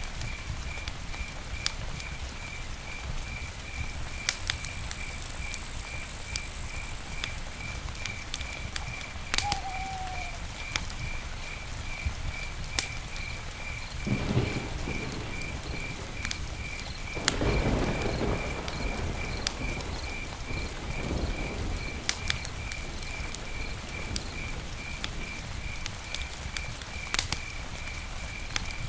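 Campfire burning, with a steady low noise and frequent sharp crackles and pops, and two swells of rushing flame about halfway through. A high, evenly pulsing chirp, about three a second, runs steadily in the background.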